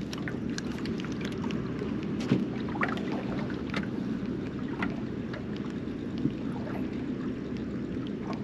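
Steady low rumble aboard a small fishing boat on the water, with scattered light clicks and taps.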